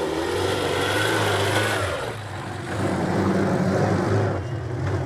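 Vintage car engine running, easing off about two seconds in and picking up again.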